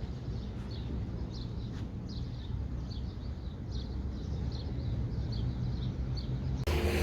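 Small birds chirping, short high notes repeating about twice a second, over a steady low rumble. A little before the end it cuts to a brighter hiss.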